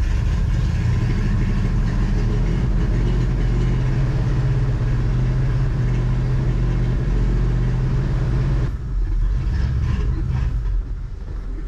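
An engine running steadily, then dropping away about nine seconds in.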